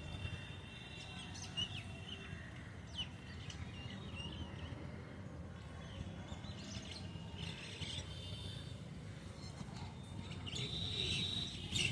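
Birds chirping and calling, short high chirps scattered throughout and more of them near the end, over a steady low background noise.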